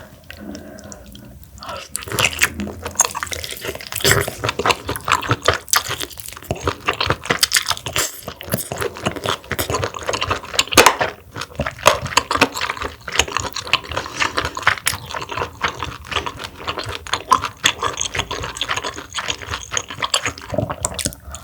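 Close-miked mukbang eating sounds: a continuous run of wet chewing, smacking and slurping as spoonfuls of mussel porridge and soup are eaten.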